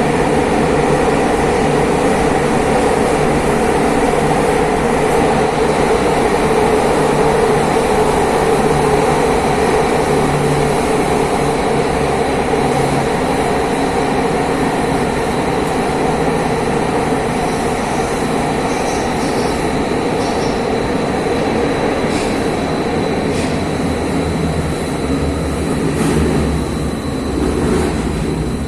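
Athens metro Line 1 train running along the track with a steady, loud rumble of wheels and carriage. A thin high whine joins about halfway through.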